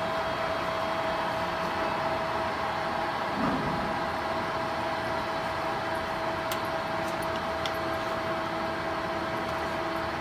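Summit model 30-4 engine lathe running with its spindle at 247 RPM: a steady hum of the 20 hp drive motor and headstock gearing with a held whining tone, running very smooth. A brief low bump about three and a half seconds in, and a few faint ticks a little past the middle.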